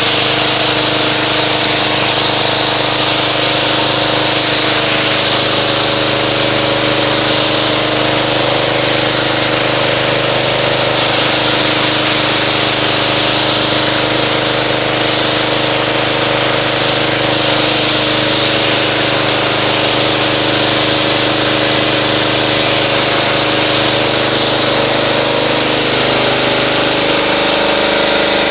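Pressure washer running steadily, its motor humming under the hiss of the water jet, rinsing car-wash foam off a car's paint.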